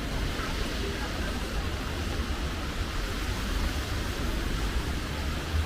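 Steady hiss of a rainy city street with a low rumble of traffic.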